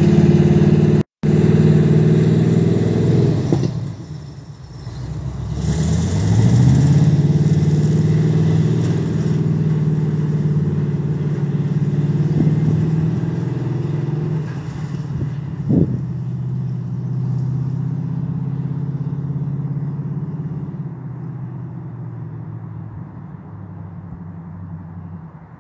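A motor vehicle engine running. It drops away about four seconds in, then rises in pitch as it picks up speed and runs steadily, fading toward the end.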